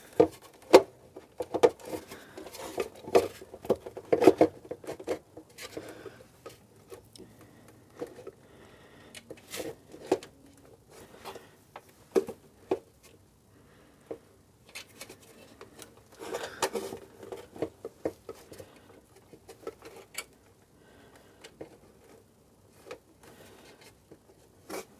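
Irregular clicks, knocks and rubbing as a motorcycle airbox is worked by hand into the frame, busiest at the start and again about two-thirds of the way through.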